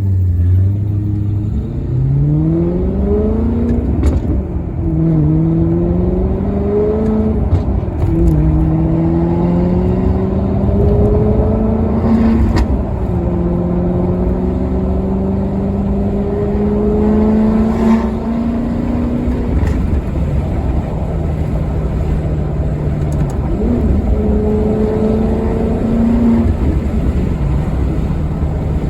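Maserati Quattroporte Sport GT's V8 accelerating hard through the gears: the engine note climbs and drops back at each of four upshifts, each gear lasting longer than the one before, then settles to a steady cruise. Near the end it rises once more and falls back.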